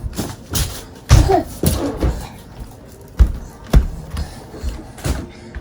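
A series of irregular thumps and knocks indoors, with a brief voice sound among them.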